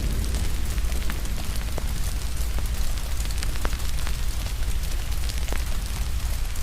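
Crackling wood fire with scattered sharp pops, layered over steady rain hiss and a deep constant rumble.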